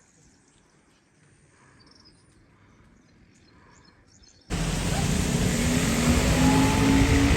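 Faint outdoor ambience, then a sudden cut about four and a half seconds in to a loud, steady rushing noise.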